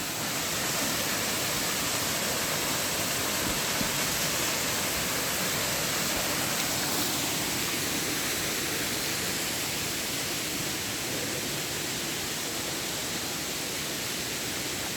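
Waterfall, water pouring steadily down a stone drop, with a constant even rush.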